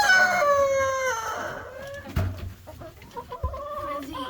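A rooster crowing: the long, drawn-out call carries on for about the first second and a half and falls away in pitch at the end. Chickens then cluck and call more softly, with a couple of sharp knocks.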